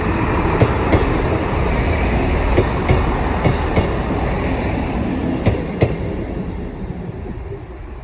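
Class 158 diesel multiple unit passing over the crossing, its wheels clicking in pairs over the rail joints above a loud running rumble that fades near the end.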